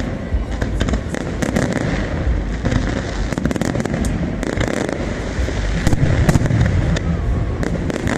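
A fireworks display: a continuous barrage of rapid crackling pops and bangs over a steady low rumble of explosions, growing heavier about six seconds in.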